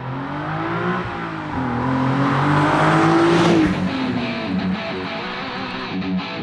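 Nissan 370Z's 3.7-litre V6 revving through a Fast Intentions aftermarket exhaust. The pitch climbs and drops back twice, the second rev longer and higher, falling away about three and a half seconds in. Rock music with guitar takes over after that.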